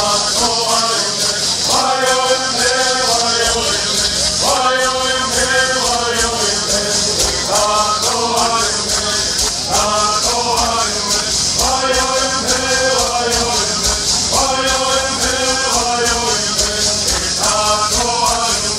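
Southern California bird song sung by a group of bird singers, with phrases starting about every two and a half seconds, over the steady shaking of gourd rattles.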